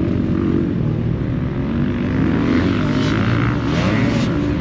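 Several motocross dirt bike engines revving up and down as they ride the track, their pitches rising and falling and overlapping.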